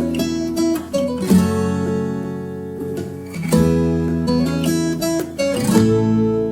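Background music: acoustic guitar strumming chords, each struck sharply and left to ring, a new chord about every two seconds.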